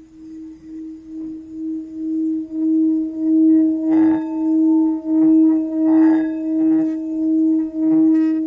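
Singing bowl ringing with one steady low tone and a fainter overtone above it, wavering about twice a second and swelling louder over the first few seconds. Two brighter strikes come about four and six seconds in.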